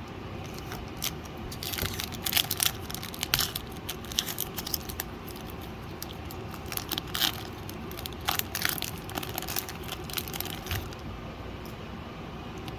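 Foil booster-pack wrapper being torn open and crinkled by hand: a run of quick, irregular crackles that stops about eleven seconds in, over a steady low background hum.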